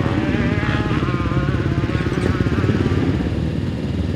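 Motocross dirt bike engine revving up and down as the bike is ridden.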